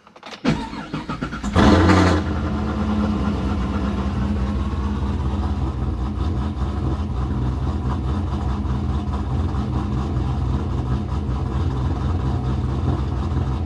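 Pontiac GTO's LS V8 being started: the starter cranks briefly, the engine catches with a short rev about one and a half seconds in, then settles into a steady idle.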